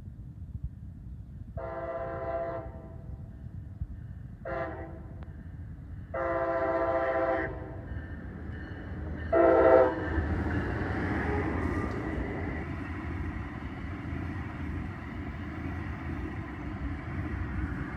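Brightline passenger train sounding its air horn four times as it nears a grade crossing: a long blast, a short one, another long one, then a short, loudest one. The train then passes close by with a steady rush of wheel and rail noise.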